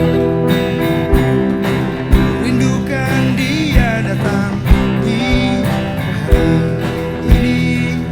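Band music led by acoustic guitar, with sustained chords and low thumps about once a second, and a wavering melody line that comes in a few seconds in.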